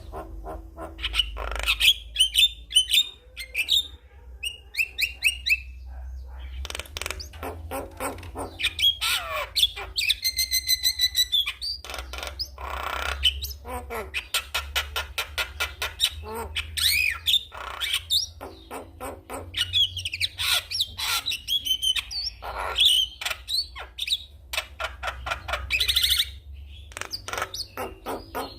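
Javan myna (jalak kebo) singing: a busy, unbroken run of clicks, chattering and whistled notes, with a fast rattling trill about ten seconds in.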